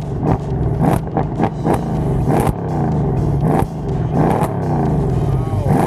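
Car engine revved in repeated short blips, about eight in a row, the pitch jumping up and sliding back down each time.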